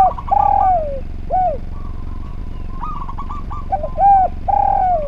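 Spotted dove (derkuku) cooing its song phrase twice: a short coo, a long coo that falls away, then a short clipped coo. Softer high chirps come between the phrases, over a steady low hum.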